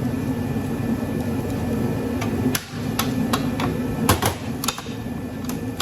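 A series of sharp metal knocks and clanks from a tool working the stuck transformer loose from a golf cart charger's case. The knocks begin about two seconds in, with a quick cluster a little after four seconds, over a steady low hum.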